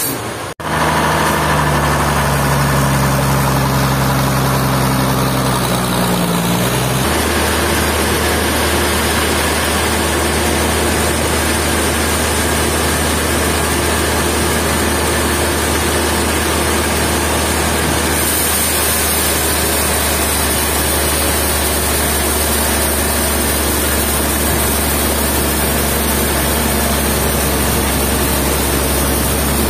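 A sawmill's heavy engine running steadily. Its tone changes abruptly about seven seconds in, settling into an even, low drone.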